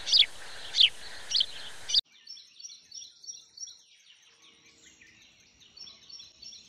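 Bird calls: a run of five loud, high-pitched, downward-sliding chirps about half a second apart. After a sudden cut about two seconds in, fainter, quick, high chirps repeat over a faint steady high tone.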